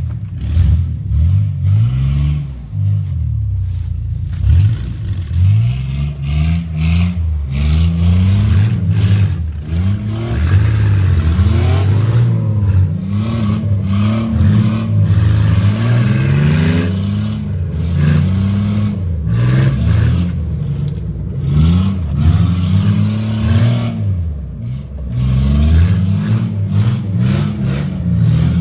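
Pickup truck engine revved hard again and again while the truck is driven off-road, its pitch climbing and dropping every second or two, with knocks and clattering from the body bouncing and hitting things.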